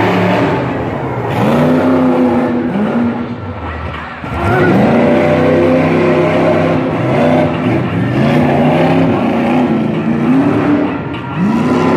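A tough truck's engine revving hard again and again as it drives a dirt obstacle course. Its pitch climbs and drops back every second or so, about eight times.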